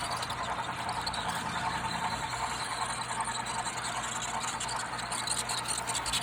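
HO scale model train running along its track: a steady electric motor whine over a hum, with faint rapid ticking from the wheels and track.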